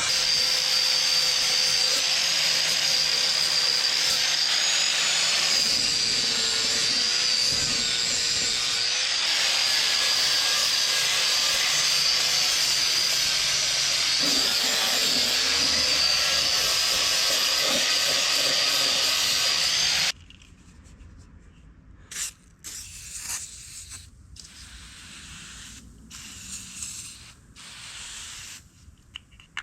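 Electric drill running a wire brush over rusty steel tank straps, a steady rasping with a wavering motor whine, which stops suddenly about 20 seconds in. Light clicks and knocks follow as the parts are handled.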